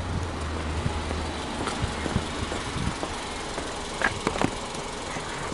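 Subaru Impreza 20S's 2.0-litre flat-four boxer engine idling steadily, with a low drone that drops away about a second and a half in. A few sharp clicks sound around four seconds in.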